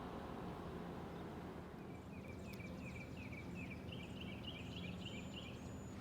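A bird singing a quick run of short, repeated chirping notes for about three seconds, starting about two seconds in, over a steady low rumble.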